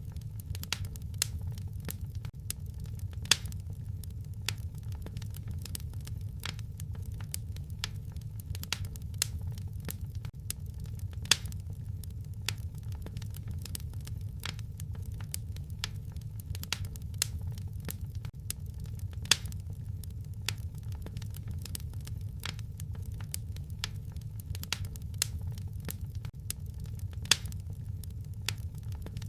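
Wood fire crackling in a fireplace: many sharp pops and snaps over a steady low rumble, with a louder pop about every eight seconds.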